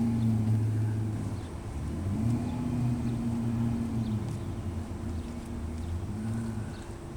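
Car tyres rolling over a cobblestone street, a low droning rumble that swells and fades: briefly at the start, longer from about two to four seconds in, and briefly again past six seconds.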